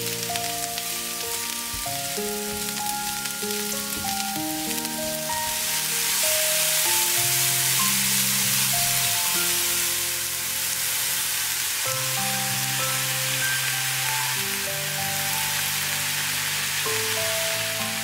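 Sliced mushrooms and diced onion sizzling in a frying pan, a steady hiss that grows louder about a third of the way in. Gentle background music with held notes plays throughout.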